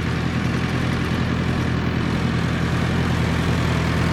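Engine idling steadily: an even low hum with hiss above it, no revving.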